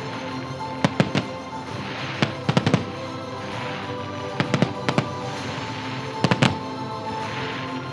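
Fireworks salute shells bursting in quick clusters of two to four bangs every second or two, with a crackling hiss between the volleys, over steady music.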